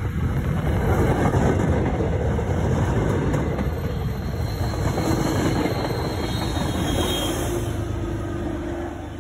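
Passenger train passing through a station: loud rumbling and rushing wheel noise on the rails, with a faint steady whine in the second half.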